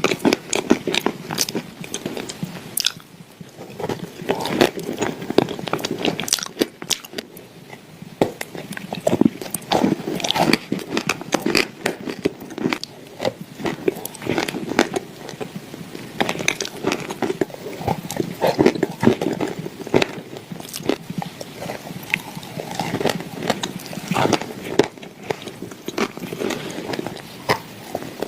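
Close-miked biting, crunching and chewing of clay, a dense run of crisp cracks and clicks with a couple of brief quieter pauses.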